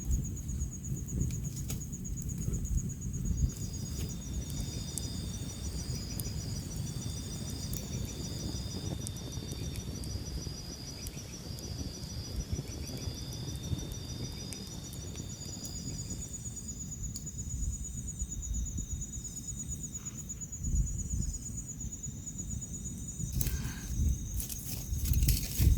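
Insects calling: one keeps up a steady high trill while a second chirps in short repeated pulses, over a low rumbling noise. A few sharp clicks come near the end.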